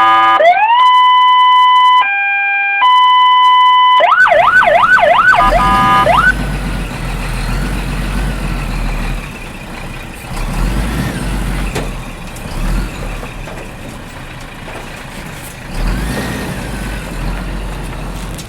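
Electronic toy siren sounding: a rising glide into a steady tone, a brief lower two-note change, then fast repeated up-and-down yelps, stopping about six seconds in. After it, an uneven, quieter rumbling noise with a low hum runs on.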